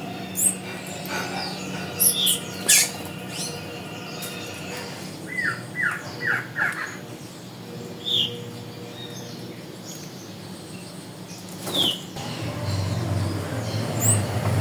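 Wild birds calling: scattered short, sweeping chirps, with a run of four quick, falling notes about halfway through. A low steady rumble grows louder near the end.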